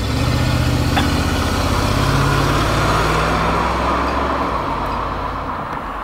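Mercedes W124 400E/E420's M119 4.2-litre V8 accelerating hard past and pulling away. The engine note rises for the first two or three seconds, then fades with distance.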